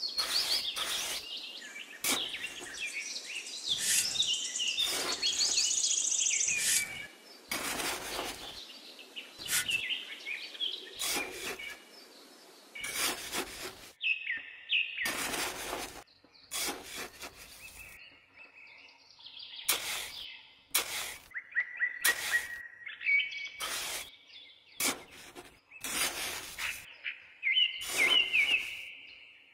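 Small birds chirping and trilling, with short scraping strokes of a small trowel digging into damp sand.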